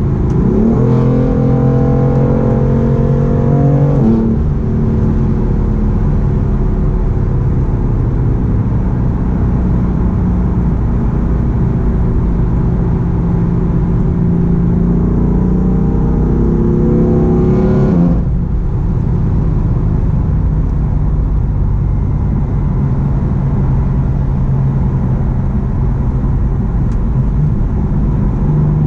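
BMW M4's twin-turbo straight-six running through a full Akrapovic exhaust while driving. Revs climb quickly and drop with a shift about four seconds in, rise slowly again and drop with another shift near eighteen seconds, then the engine holds a steady cruise.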